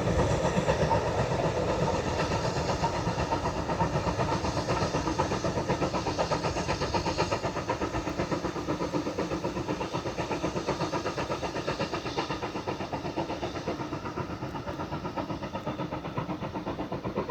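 Steam-hauled train on the move behind a 9F locomotive, with a fast, even rhythmic clatter that slowly fades.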